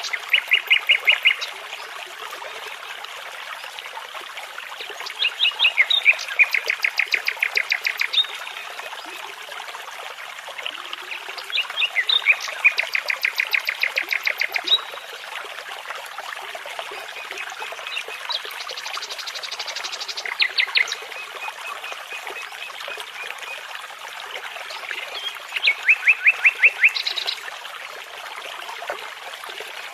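Nightingale singing phrases of fast repeated notes, about five phrases spaced every five or six seconds, over the steady rush of a babbling brook.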